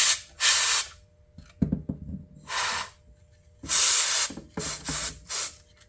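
Short blasts of compressed air hissing, about six bursts of under a second each, blowing trapped dirt out from behind a timer's display, with a short low knock between the first bursts.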